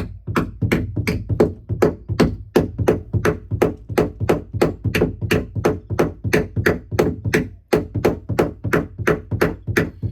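Hammer driving a nail into a wooden roost board, struck in a steady run of about three to four blows a second.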